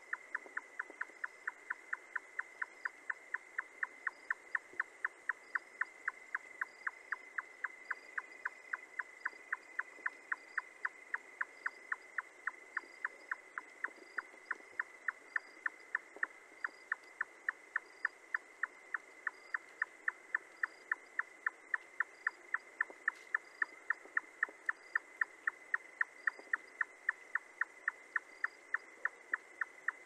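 A bird calling a long, even series of short notes, about three a second, over a steady high hum.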